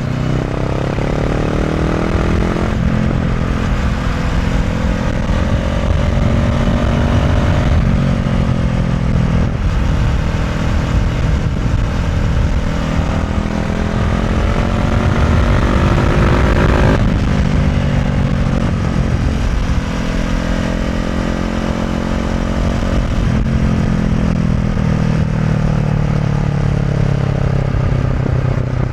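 Honda CB500F parallel-twin engine through an SC Project Conic titanium slip-on exhaust, pulling through the gears: the pitch climbs, then drops at each shift, several times, with the revs easing off and falling in between. Wind noise rushes over the microphone underneath.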